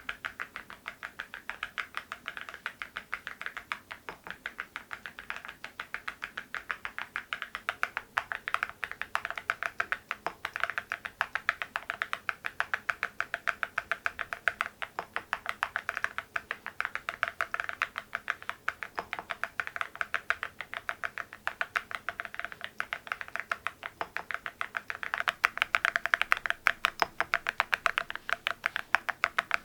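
Steady, continuous typing on an MZ Y3 mechanical keyboard fitted with Cerakey ceramic keycaps: a dense stream of sharp keystroke clacks, getting somewhat louder about 25 seconds in.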